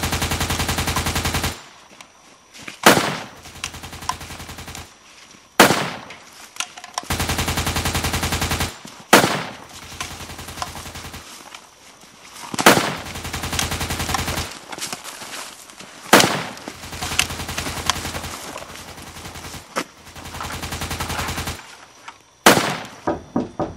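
Bursts of rapid machine-gun fire, each lasting a second or two, with fainter rattling gunfire between them and single loud bangs every few seconds.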